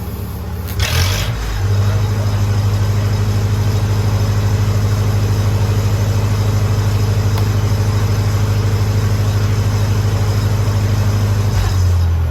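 Lincoln SA-200 engine-driven welder's engine picking up about a second in and holding a steady, loud drone under welding load while a TIG weld is run. Near the end it drops back down.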